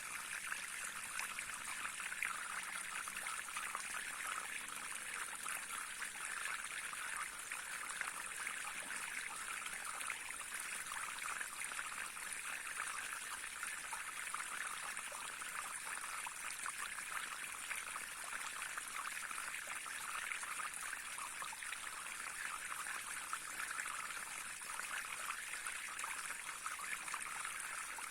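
Small stream flowing and trickling steadily over stones, a continuous even rush of water.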